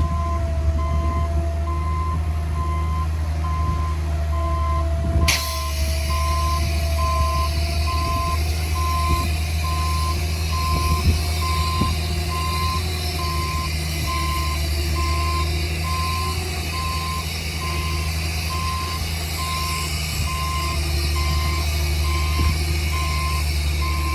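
Heavy earthmoving machine's reversing alarm: a single-tone beep repeating evenly, over the steady low rumble of a large diesel engine.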